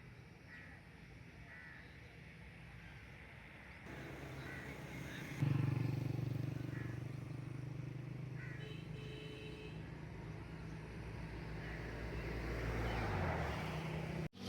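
A motor vehicle's engine comes in suddenly about five seconds in and runs steadily, its pitch dropping near the end, with faint bird chirps over it.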